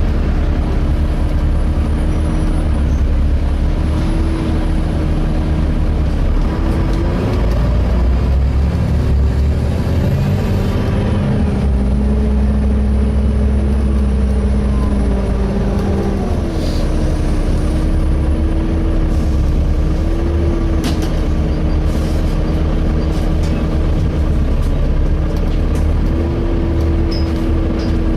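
Volvo B7TL double-decker bus heard from inside: the diesel engine runs with a steady low rumble and a whine from the engine cooling fan. The whine rises in pitch for several seconds about halfway through, then settles back.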